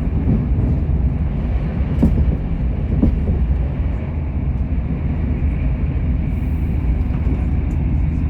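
Great Western Railway train running at high speed: a steady low rumble of wheels on rail, with a couple of sharp knocks about two and three seconds in.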